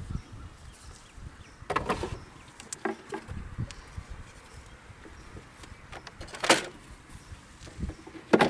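Wooden beehive parts being handled: a series of knocks and clatters as boxes and frames are moved and set in place, the loudest about two thirds of the way through. A low rumble of wind on the microphone runs underneath.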